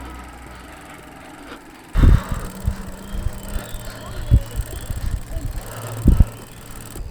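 Riding a bicycle: wind buffeting the microphone with uneven low rumbles and a few sharp thumps, starting about two seconds in.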